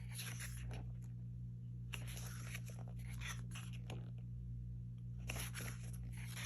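Album photobook pages being handled and turned: paper rustling and sliding in three short bursts, over a steady low hum.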